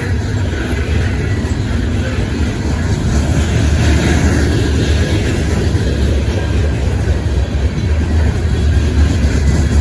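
A train rolling past close by, a loud steady rumble of wheels and cars on the rails.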